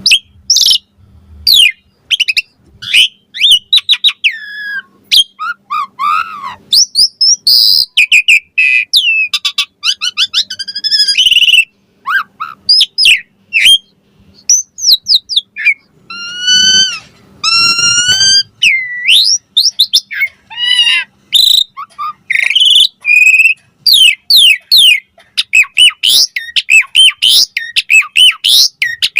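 Javan pied starling (jalak suren) singing a long, varied song of whistles, rising and falling glides and harsh squawking notes in quick succession.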